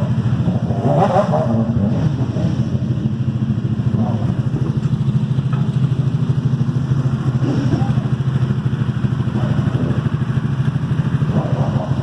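Sport motorcycle engines idling steadily with a low, pulsing exhaust note.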